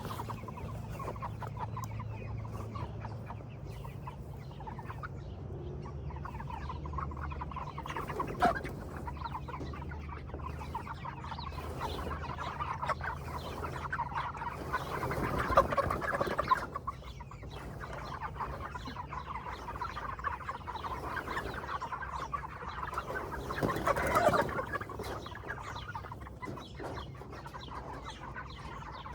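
A flock of Cornish cross meat chickens clucking and chattering continuously, growing louder about halfway through and again about three-quarters of the way in.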